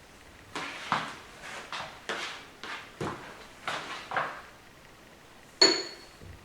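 A run of short rattling and rustling handling noises, then one sharp metallic clink with a brief ring about five and a half seconds in, as small metal transmission parts are handled and set down.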